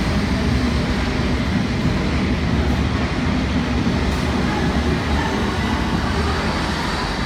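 London Underground S8 Stock Metropolitan line train pulling out: a loud, steady rumble of wheels and running gear.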